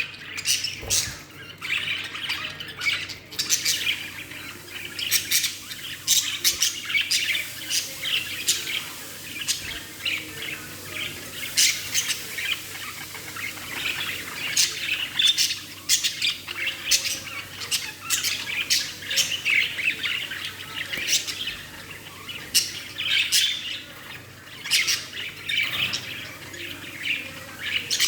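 Budgerigar chirping and squawking in a steady run of short, sharp, high calls.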